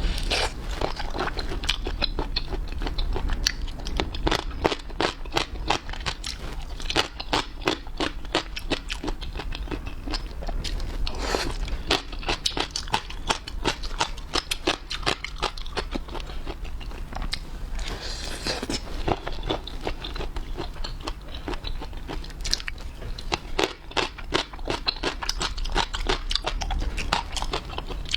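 Close-miked ASMR eating: a person chewing and biting into crunchy food, with a dense, irregular run of wet crunches and clicks.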